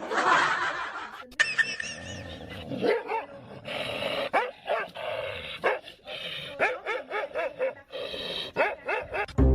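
A dog barking repeatedly, in short calls that rise and fall in pitch.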